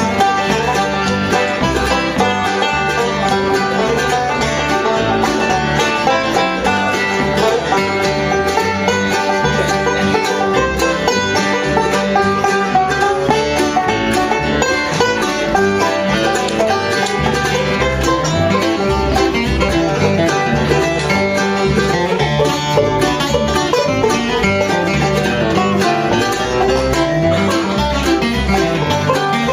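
Live bluegrass band playing, with banjo and acoustic guitar carrying a steady up-tempo rhythm.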